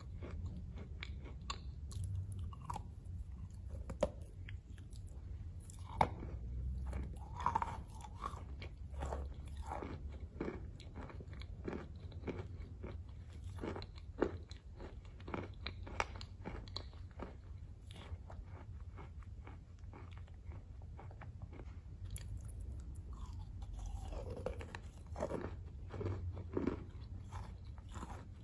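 A person chewing chalk: many irregular crunches and small crackles as the chalk breaks between the teeth, over a low steady hum.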